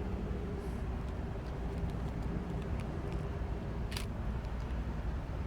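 Metrolink commuter train rolling past: a steady low rumble with a faint hum that fades out about three seconds in, and a single sharp click about four seconds in.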